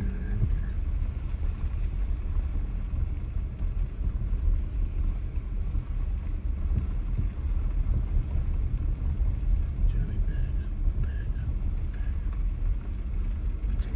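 A car driving slowly, a steady low rumble of engine and road noise.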